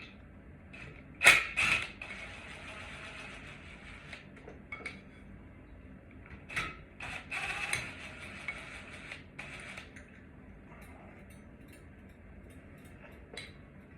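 Clicks, knocks and scraping creaks of ceiling fan parts being handled and worked loose, with the loudest pair of clicks about a second in and another cluster of clatter midway.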